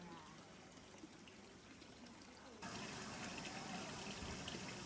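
Steady hiss of running, splashing water with faint voices in the background; it gets suddenly louder a little over halfway through.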